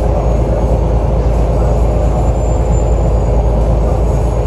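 Alexander Dennis Enviro 500 double-decker bus's diesel engine running, a steady heavy rumble with a faint high whine near the middle, the sound its recorder calls weird.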